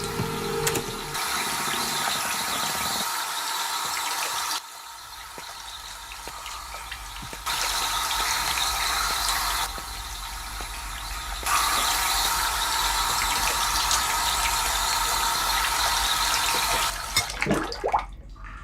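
Water running hard from a tap, in a steady rush that grows louder and softer in abrupt steps several times. A few short swishes come near the end.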